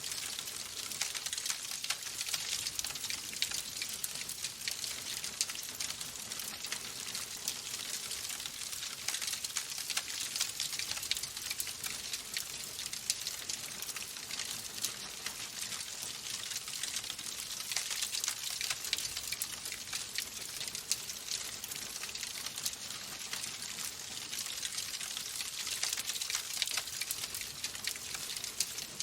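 Wood fire crackling in a fireplace: a steady hiss thick with small, rapid pops and snaps.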